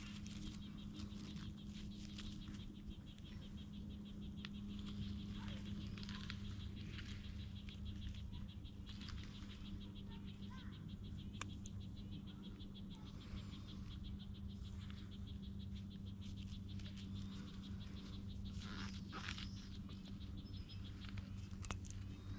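Garden ambience: a fast, steady, high-pitched trill of chirping insects with a low steady hum underneath, and scattered small clicks and rustles as onion tops are cut and handled.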